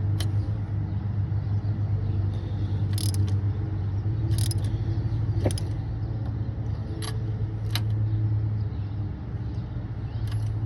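2016 GMC Yukon XL's V8 engine idling with a steady low hum. A few light metallic clicks and clinks are scattered over it.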